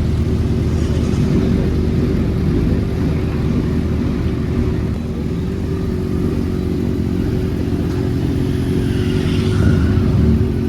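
Sport motorcycle engines running steadily close by, with a brief dip in level about halfway through and a slight rise near the end.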